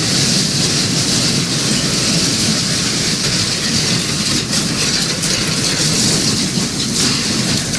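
Loud, steady rumbling noise of strong earthquake shaking, with a few sharp clicks and knocks about halfway through.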